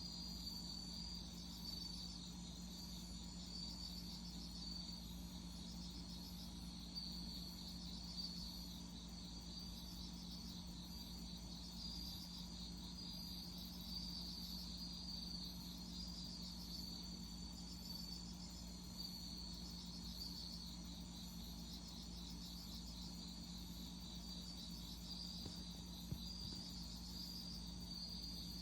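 Insects, crickets or similar, chirping steadily in high, pulsing trills, with a faint steady low hum underneath.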